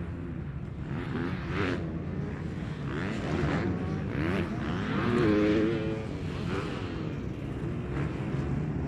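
Several motocross bikes racing on a dirt track, their engines revving up and down as the riders work the throttle and shift gears, with one bike passing loudest about halfway through.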